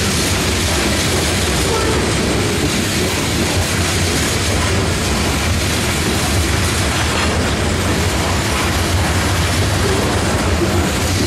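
Freight train's covered hopper cars rolling past: a steady rumble of steel wheels on the rails.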